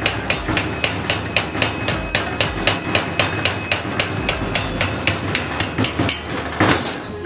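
Hammer striking metal in a steady rhythm, about four blows a second, each blow with a short metallic ring. It stops about a second before the end.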